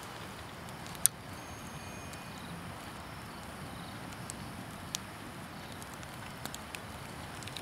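Campfire crackling: a steady low hiss with a few sharp pops, the loudest about a second in.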